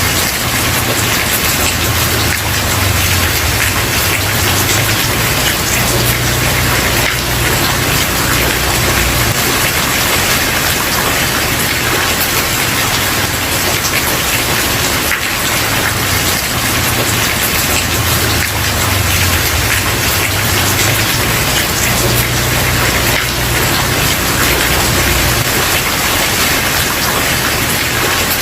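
Steady rain falling on a wooden porch, a dense even hiss of drops. A low rumble rises and fades underneath it a few times.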